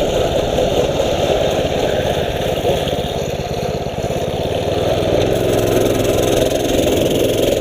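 Mini bike engine running while riding, mixed with a dense rush of wind and road noise on the camera microphone. A steadier low engine hum comes in about five seconds in.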